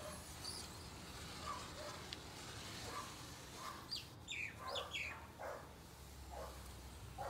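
Birds calling faintly, with short repeated calls and a quick cluster of high falling chirps about four seconds in.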